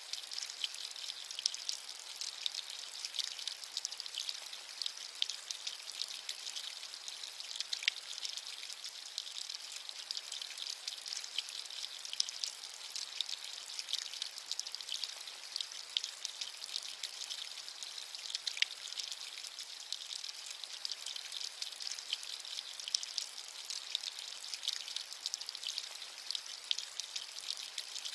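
Steady rainfall, a continuous high hiss with many small drops pattering and crackling throughout.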